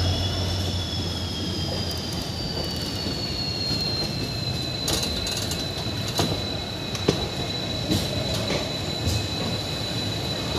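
Passenger train rolling slowly along a platform, its wheels giving a steady high-pitched squeal that slowly drops in pitch, over a low rumble. A few clacks of wheels crossing rail joints come in the second half.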